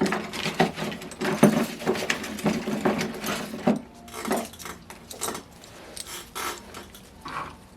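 Metal hand tools clicking and knocking against a small engine: a quick, irregular run of small knocks for about the first four seconds, then a few scattered clicks.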